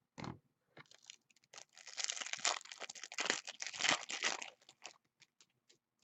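Trading card pack wrapper being torn open and crinkled by hand: a short crackle at first, then about three seconds of dense tearing and crinkling of the foil, trailing off into a few small clicks.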